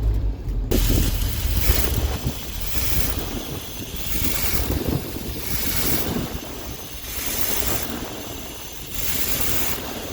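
1951 GMC fire engine's engine running after a cold start, with a rushing, wind-like hiss that swells and fades about once a second.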